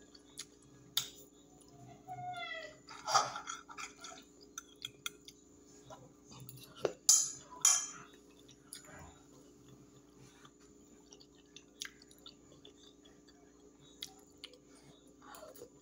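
A person chewing food, with a fork clicking and scraping against a glass plate now and then, over a steady low hum.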